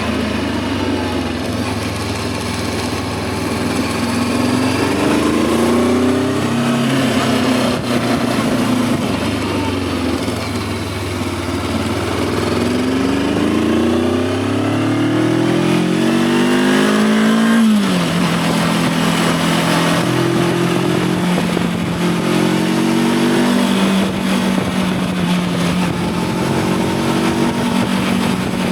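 Voge 525 DSX motorcycle's parallel-twin engine pulling under acceleration: the revs climb twice, drop sharply about two-thirds of the way in, then hold steadier as it cruises, with wind noise over the engine.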